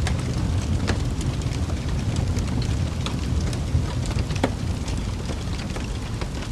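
Wood fire burning in a fireplace: a steady low roar of the flames with scattered crackles and pops from the burning logs, one sharper pop about four and a half seconds in.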